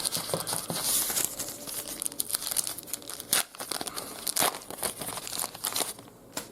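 A trading-card pack wrapper being torn open and crinkled by hand, a dense crackling with many sharp ticks, thinning out near the end.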